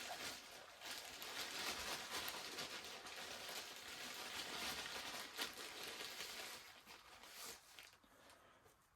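Dry Sculptamold being scooped out with a small cup: a soft, steady rustling and crinkling that dies away near the end.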